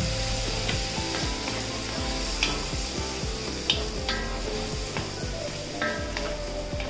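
Mushroom masala sizzling in a kadai after half a cup of water has been added, stirred with a wooden spatula that scrapes against the pan several times.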